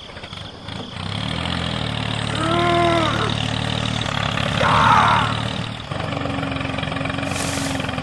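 Engine running steadily, its note changing to a steadier hum about six seconds in. A short pitched sound rises and falls near three seconds, and a brief noisy burst follows around five seconds.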